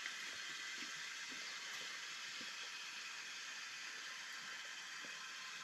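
Steady rain falling: an even hiss with faint scattered drip taps.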